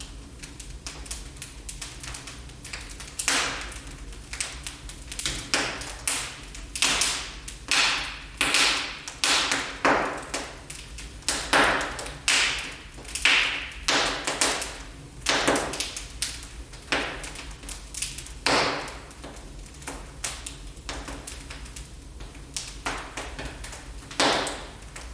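Wood fire in a fireplace crackling, with many sharp pops coming thick and fast through the middle and thinning out toward the end.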